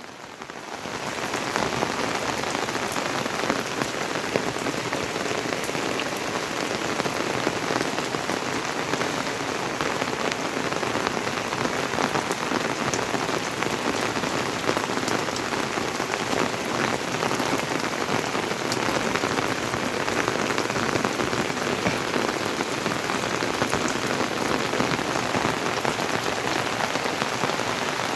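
Steady rain falling, coming up over the first second or two and then holding even.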